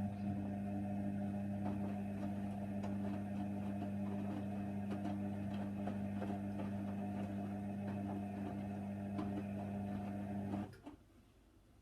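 Hoover Nextra HNWL 7146 washer dryer running mid-programme on a cotton wash: a steady low electric hum with light clicks and rattles, which cuts off suddenly near the end.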